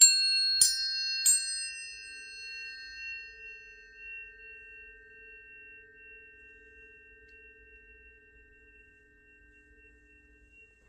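Tuning forks struck three times in quick succession, each strike a bright metallic ping, leaving high, pure tones ringing on and slowly fading. A fainter, lower steady tone joins about three seconds in.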